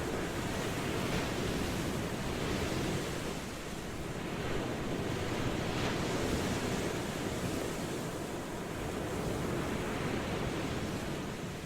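Ocean waves washing in steadily, with a slow rise and fall in loudness every few seconds as each wave breaks and recedes.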